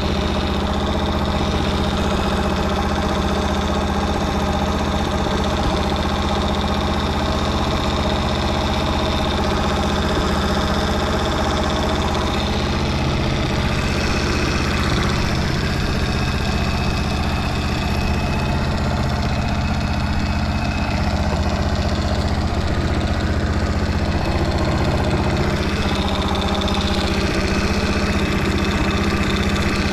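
Honda Motra's 50 cc four-stroke single-cylinder engine idling steadily. It runs evenly and, in the seller's words, quite quietly with no abnormal noise.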